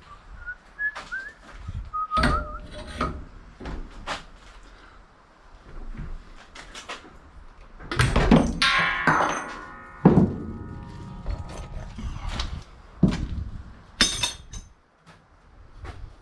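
Pieces of brass and copper scrap knocking and clanking as they are handled and dropped, some hits ringing briefly like metal. The loudest run of clanks comes about halfway through, with another sharp clank near the end.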